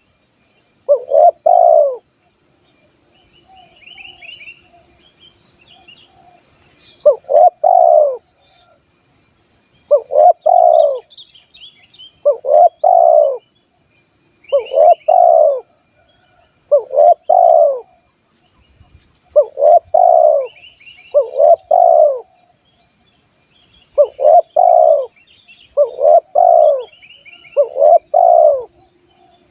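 Spotted dove (tekukur) cooing: a loud coo phrase repeated about every two seconds, eleven or so times. Small birds chirp faintly and insects buzz steadily behind it.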